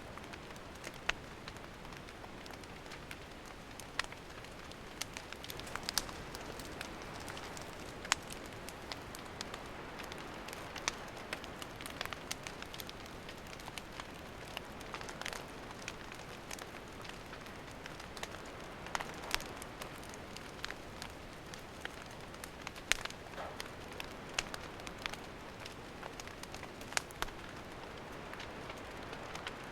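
Wood campfire burning: a steady hiss with sharp crackles and pops at irregular intervals.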